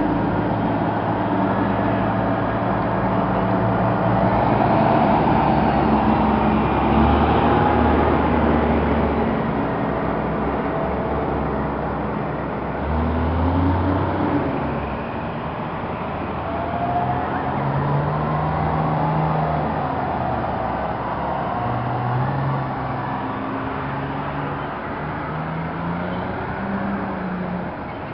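A convoy of heavy fire trucks driving past, their diesel engines running, with engine pitch rising and falling as one truck after another goes by.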